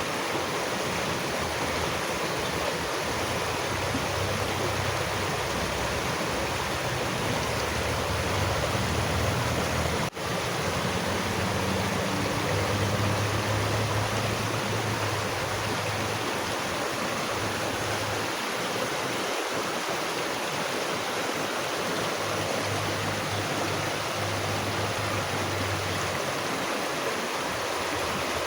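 Steady rushing of a stream or small waterfall. About ten seconds in it drops out for an instant, like a splice, then carries on.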